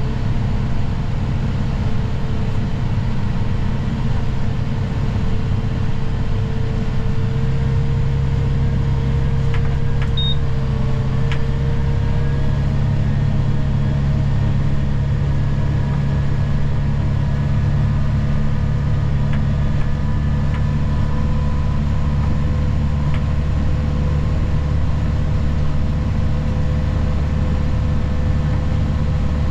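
Steady, even drone of a plow vehicle's engine while driving, with a few faint clicks about ten seconds in.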